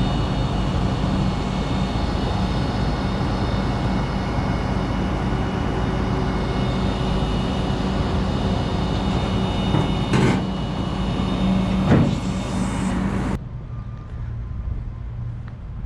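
Freightliner Cascadia semi-truck's diesel engine running steadily, with two short knocks near the end. About thirteen seconds in the engine sound cuts off suddenly, leaving a much quieter background.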